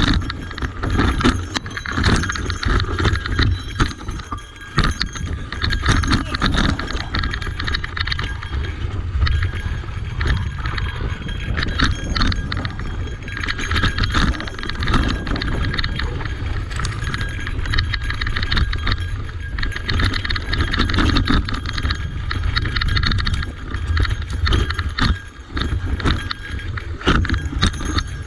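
Cube Reaction Hybrid EX 625 electric mountain bike rattling and clattering as it is ridden over rough trail, with a constant run of irregular knocks and a steady low rumble underneath.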